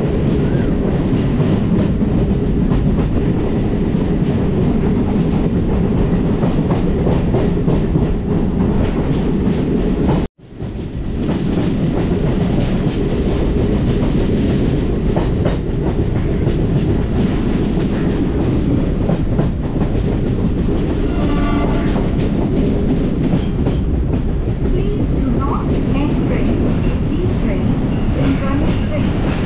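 Chennai electric local train running along the track with a steady rumble of wheels on rails. High wheel squeals come in around twenty seconds in and again near the end. The sound cuts out abruptly for a moment about ten seconds in.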